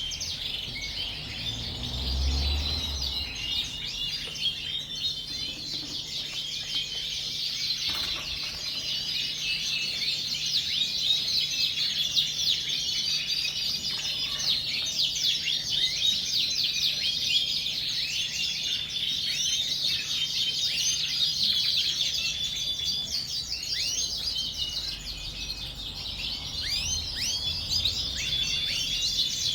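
Many Yorkshire canaries chirping and singing at once, a dense, unbroken chorus of short high chirps and trills. A brief low thud about two seconds in.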